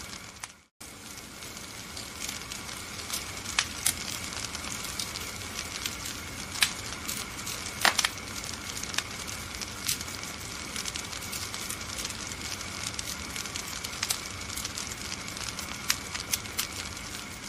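Wood fire in a fireplace crackling: a steady hiss with irregular sharp pops and snaps, the loudest pop about halfway through. The sound cuts out completely for a moment just under a second in.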